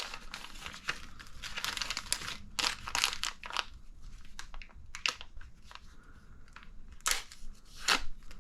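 Plastic parts bag crinkling in irregular crackles as it is handled and cut open with a knife.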